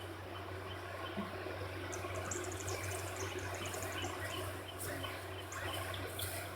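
Faint outdoor background: scattered short, high chirps and ticks over a steady low hum.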